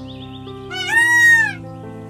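Male Indian peafowl giving one loud call, a little under a second long, that rises and then falls in pitch, about a second in, over soft background music.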